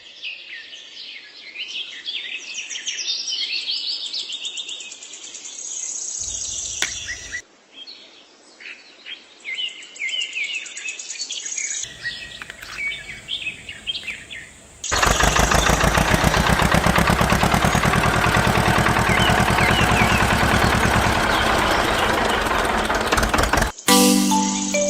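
Birds chirping with many short, quick calls. About fifteen seconds in, an engine starts and runs loudly with a rapid, even pulsing.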